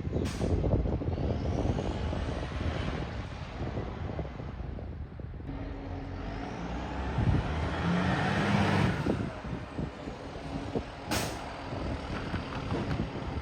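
Garbage truck's diesel engine running with a rough, chattering exhaust note from an exhaust leak, revving up and getting louder around the middle. Two short air-brake hisses, one just after the start and one about eleven seconds in.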